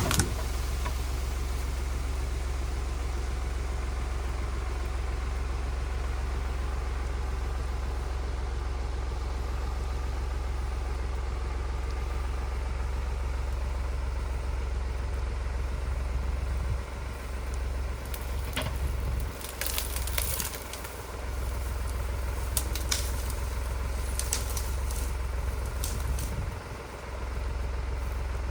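Tractor engine running at a steady low note, with a sharp knock at the very start. In the second half the engine note dips briefly twice, and a run of clicks and knocks sounds over several seconds.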